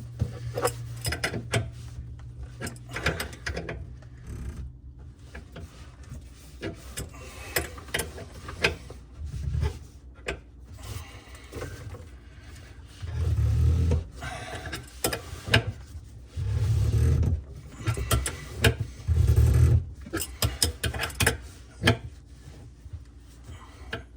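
Small wrench clicking and scraping on a compression nut as it is tightened down onto the ferrule at a water shut-off valve, with a few dull low bumps in the second half.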